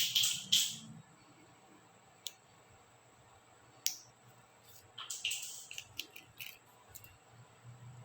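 Small plastic clicks and short scrapes as laptop keycaps are prised off and handled. There is a scrape near the start, single sharp clicks about two and four seconds in, then a quick cluster of clicks and rustles from about five to six and a half seconds in.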